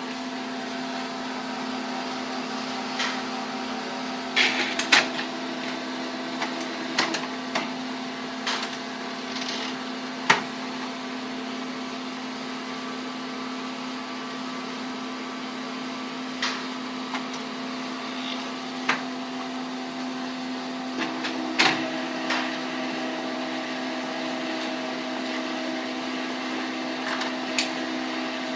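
HP Color LaserJet CP2025n laser printer running with a steady low hum, broken by scattered sharp clicks and ticks.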